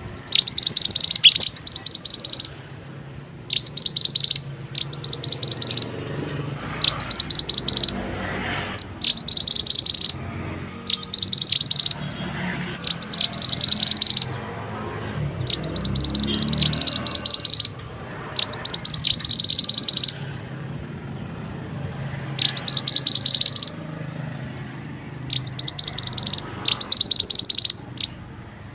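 A mantenan songbird singing tight, rapid high-pitched trills in repeated bursts of about a second each, roughly a dozen bursts with short pauses between.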